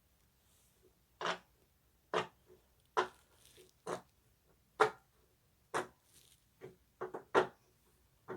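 Silicone pop-it fidget toy, its bubbles pressed one after another, each giving a short sharp pop; about one pop a second, with a quicker run of pops near the end.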